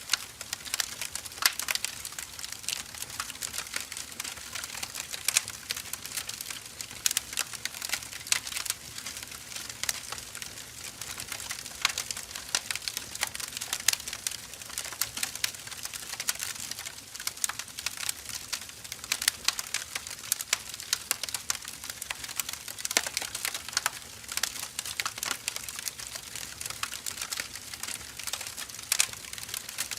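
Firewood burning, crackling with many irregular sharp snaps over a soft hiss.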